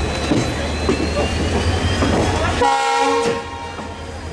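Moving passenger train heard from inside the carriage, with steady running noise and a low hum. A short horn blast sounds a little under three seconds in.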